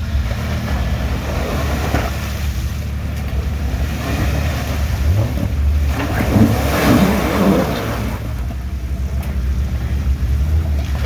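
Waterfall rushing as a steady roar of falling water with a strong low rumble, swelling for a couple of seconds past the middle.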